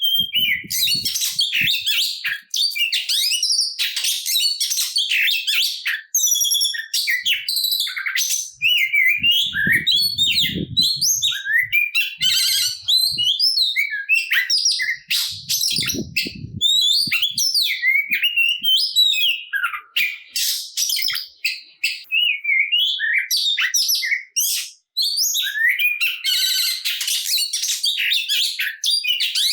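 Oriental magpie-robin (kacer) singing non-stop in aggressive fighting song: a rapid, varied stream of whistles, chirps, quick up-and-down glides and trills, packed with varied phrases ("full isian"). A few faint low thumps sound under the song.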